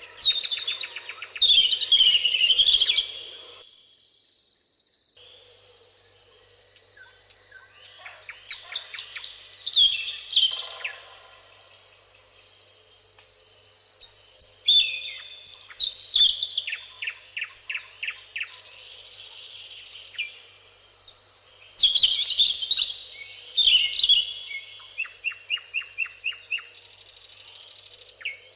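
Songbirds singing in a meadow: four loud bouts of chirps, whistles and fast trills, over a steady high-pitched tone. Two short buzzes come in high up, about two-thirds of the way through and near the end.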